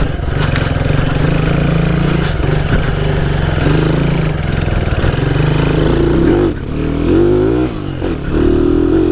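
Honda C90's small single-cylinder four-stroke engine pulling hard under load on its freshly adjusted carburettor. The note holds steady, dips briefly about six and a half seconds in, then climbs and settles at a higher pitch near the end.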